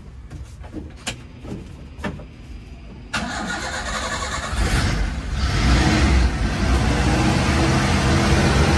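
A 2005 Suzuki Espass's 1.3-litre engine being started from inside the cab: two clicks, then the starter cranks about three seconds in and the engine catches and settles into a steady idle, running normally.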